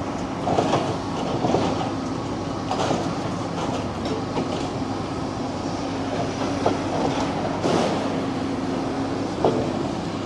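Demolition excavator crunching through a concrete building: a steady engine hum under irregular cracks and clatter of breaking concrete and falling rubble.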